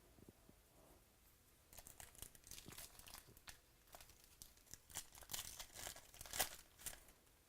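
Foil trading-card pack wrapper being torn open and crinkled by hand, a run of soft irregular crackles starting about two seconds in.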